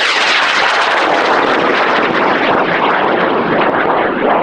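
M1315 high-power rocket motor burning at liftoff: a loud, steady rushing noise full of crackle, easing slightly near the end.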